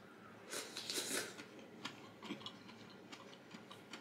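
A person chewing food: soft wet mouth sounds with a louder noisy stretch about half a second in, then scattered small clicks of chewing.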